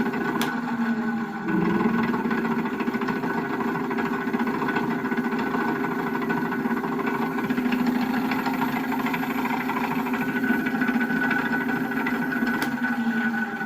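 The engine of a Nissan E26 (NV350 Caravan) van running steadily, likely at idle, heard for a check of how it sounds after about 7,000 km. The engine note dips briefly about a second in, then comes back slightly higher.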